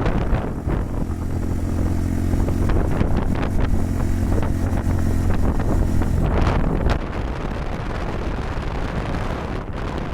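Honda Super Cub 110's single-cylinder four-stroke engine running at a steady speed while riding, under heavy wind buffeting on the microphone; after about seven seconds the engine tone fades and the wind noise takes over.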